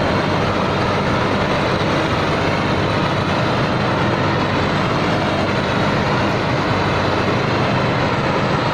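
Tai Seng rice combine harvester's diesel engine running steadily at working speed as the machine harvests through a deep, muddy paddy.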